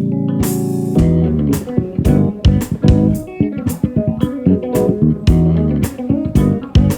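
Live band playing during an electric guitar solo, backed by bass guitar and drums. A held chord rings for about the first second, then the guitar plays quick runs of notes over sharp drum hits.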